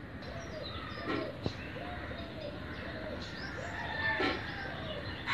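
Birds calling: a run of short, low, arched calls repeating every half second or so, with higher chirps and twitters over them.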